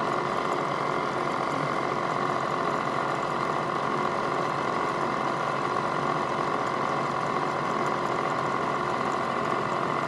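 Milling machine spindle running steadily with a 1/8 inch end mill, a constant mid-pitched whine with no change in load, before the cutter touches the brass.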